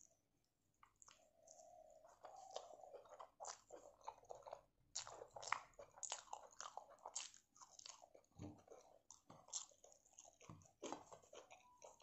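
Close-miked chewing and crunching of a rice meal eaten by hand, a dense run of quick wet clicks and crackles starting about a second in.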